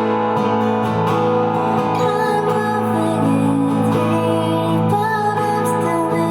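Live song: a singer with guitar accompaniment, sustained notes and a wavering melody line.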